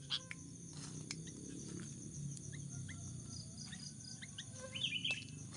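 Short bird chirps scattered over a steady high-pitched insect drone, with a quick cluster of chirps near the end.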